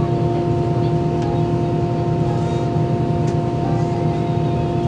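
Steady drone inside the cabin of an Airbus A320, with a low hum and a few constant whining tones.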